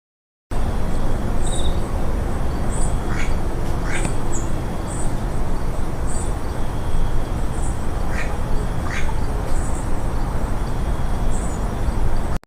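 Birds calling over a steady, noisy background: short high chirps about once a second, and two pairs of brief calls, one a few seconds in and one past the middle.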